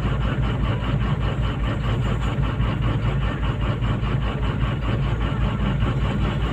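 Komatsu PC200-8 excavator's six-cylinder common-rail diesel engine running steadily at idle, with an even firing pulse. The machine is being tested for a suspect common-rail pressure sensor.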